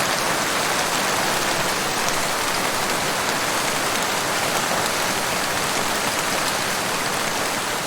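Heavy rain pouring steadily, a dense, even hiss of drops on surfaces.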